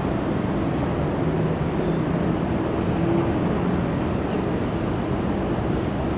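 Jet airliner engines running: a steady, even noise with a faint low hum.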